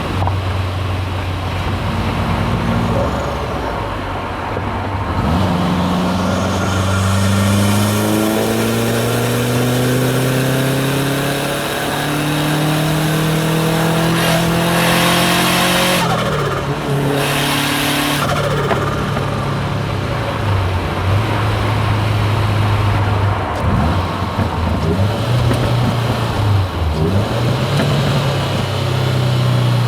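Subaru WRX STI's turbocharged flat-four pulling hard, its pitch rising steadily through a long acceleration, then two loud hissing bursts from the hybrid turbo and external wastegate as the driver lifts off. The revs then fall, and the engine settles to a low steady cruise.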